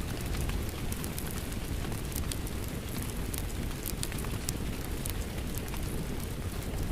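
Crackling wood fire, with sharp pops and snaps scattered over a steady low rumble, mixed with falling rain.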